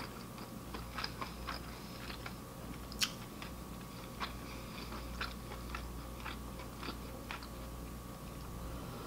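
A person chewing a mouthful of food close to the microphone, with soft, irregular little clicks and crunches.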